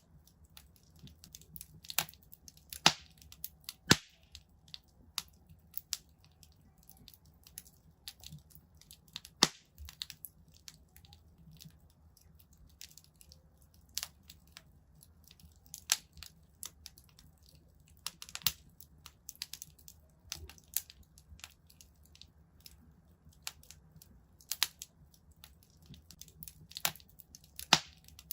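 Wood fire crackling in a fireplace: irregular sharp pops and snaps, a few louder cracks standing out, over a faint low rumble of the flames.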